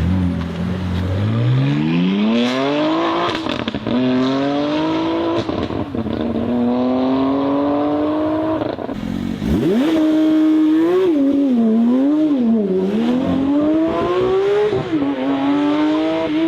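Six-cylinder car engine accelerating hard, its pitch climbing and then dropping at each gear change. In the second half it revs up and down repeatedly.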